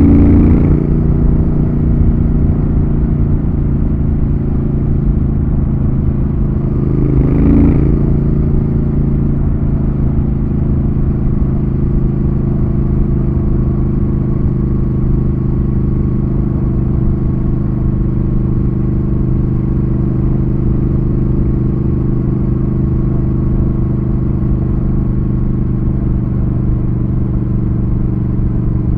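Triumph Thruxton RS's 1200 cc parallel-twin engine pulling the motorcycle along at a steady cruise. The engine note dips briefly about seven seconds in, then holds steady.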